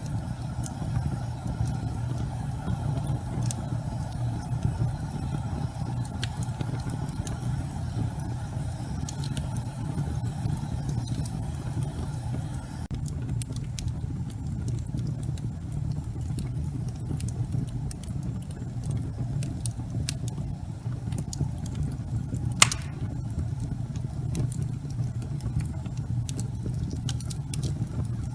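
Logs burning in a fireplace: a steady low rumble of the flames with scattered sharp crackles and one loud pop about three-quarters of the way through.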